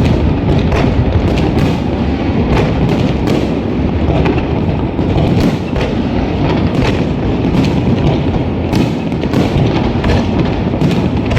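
A fireworks display going off as a dense barrage: many sharp bangs and cracks a second over a continuous low rumble.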